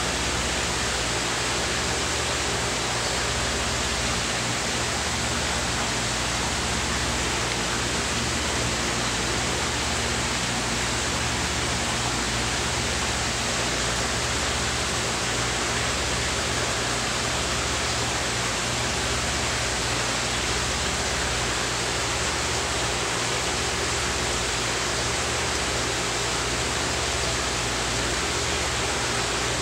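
Steady, even hiss of noise with no change in level and no separate events.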